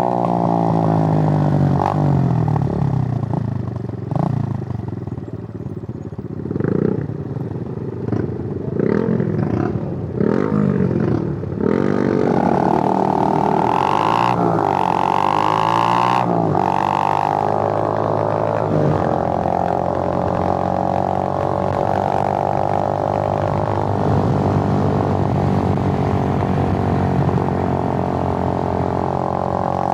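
Suzuki GN125's air-cooled single-cylinder four-stroke engine heard while riding. For the first several seconds the revs rise and fall in short sweeps through gear changes, then from about twelve seconds in it settles into a steady drone at held revs.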